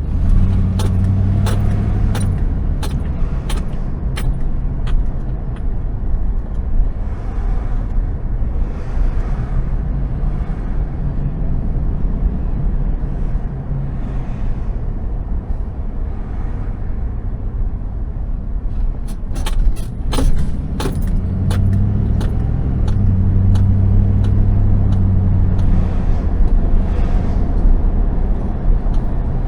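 Car engine and road noise while driving: a steady low rumble, with the engine's hum rising to the front for a couple of seconds at the start and again later. Scattered sharp clicks and knocks come in the first few seconds and again about two-thirds of the way through.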